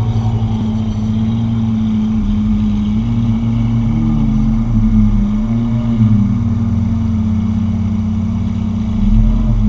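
Car engine droning steadily while driving, with road rumble; its pitch drifts gently up and down a few times.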